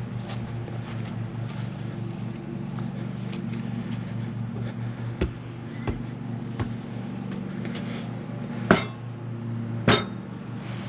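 A few sharp knocks and clanks, typical of cookware being handled at a campfire, over a steady low hum. Three lighter knocks come around the middle, and the two loudest about a second apart near the end.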